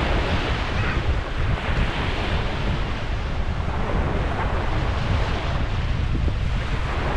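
Small Gulf surf washing in, its hiss swelling and easing every second or two, under a steady low rumble of wind buffeting the microphone.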